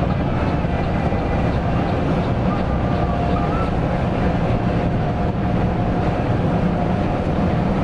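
Mercedes-Benz OC 500 RF 2542 bus engine running, a steady low rumble with no change in pace.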